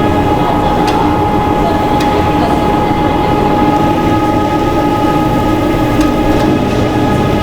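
Factory machinery running steadily, a constant whine over a rumble with a few light clicks.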